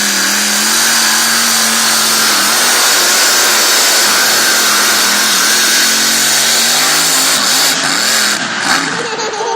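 Pulling vehicle's engine running loud at high revs with a dense hiss, its pitch held steady; about eight seconds in the revs waver and drop off.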